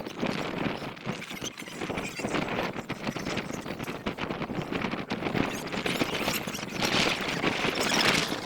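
Rough, squealing roars from a jaguar-roar sound toy being blown, loudest near the end.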